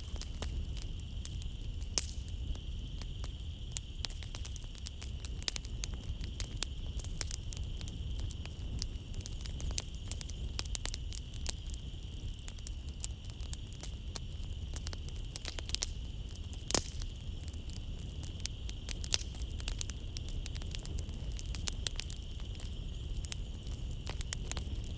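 Wood fire crackling in a fireplace, with frequent irregular snaps and one sharper pop about two-thirds through, over a low rumble. Behind it runs a steady high chirring of night insects.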